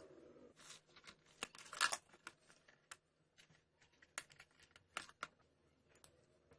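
Irregular light clicks, taps and brief scrapes of small parts being handled, loudest about two seconds in.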